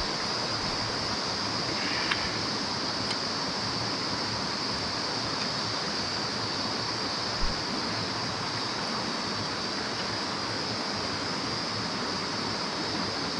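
Mountain stream water running steadily, with a steady high-pitched hiss over it and a light knock about seven seconds in.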